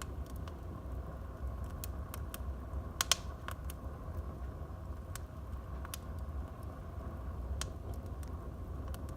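Wood fire crackling in a fireplace: scattered sharp pops over a low, steady rumble, the loudest a quick double pop about three seconds in.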